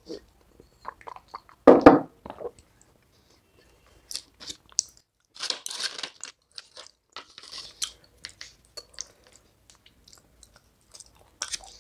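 Close-miked eating: biting and chewing brittle broken clay shards dipped in a thick white paste, crisp crunches and crackles. A louder, deeper mouth sound comes about two seconds in, and the crunching is thickest through the middle before thinning to scattered clicks.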